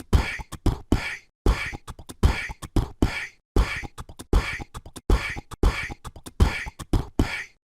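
A rhythmic percussion beat of deep kick-like thumps alternating with sharp, hissing snare-like hits, about two hits a second. It cuts off abruptly near the end.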